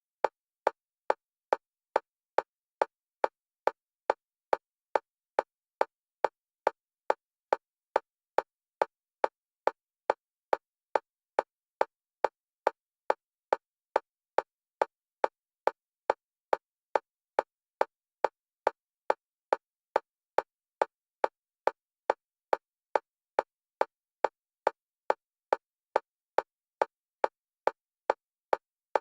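Metronome clicks at a single pitch in a fast, even, unbroken rhythm, alternating between the left and right stereo channels: a bilateral-stimulation track for EMDR.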